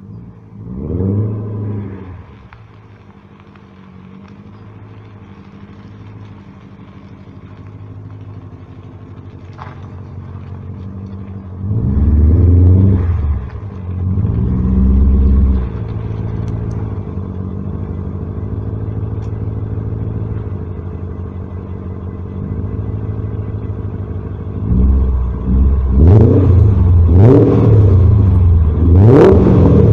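BMW E39 M5's 4.9-litre V8 through a Fox aftermarket exhaust with a Magnaflow X-pipe, idling with a deep drone and revved in short throttle blips that rise and fall. There is one blip about a second in, a few around the middle, and a quick run of louder blips near the end.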